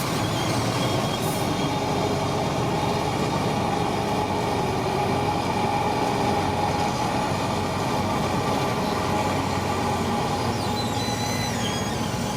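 Shantui crawler bulldozer working, its diesel engine running steadily under load with the clatter of its steel tracks, and a brief high squeal near the end.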